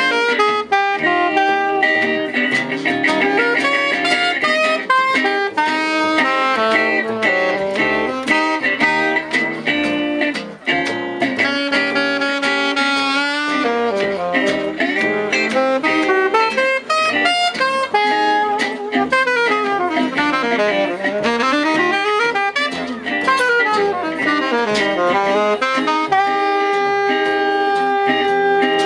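Live gypsy-jazz band playing an instrumental break: a saxophone solo over acoustic guitar accompaniment. The solo is full of quick runs, sweeping up and down in pitch about two-thirds of the way through.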